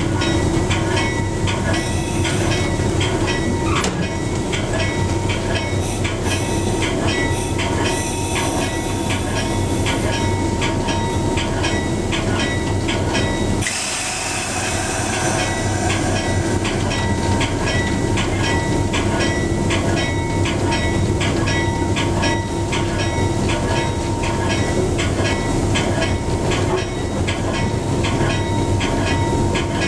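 Train running on the rails, its wheels clicking steadily over the rail joints above a continuous engine drone.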